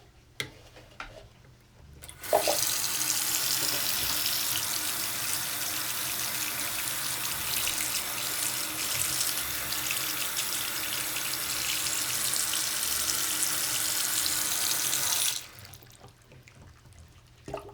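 Bathroom sink tap turned on about two seconds in, water running steadily into the basin for about thirteen seconds, then shut off abruptly.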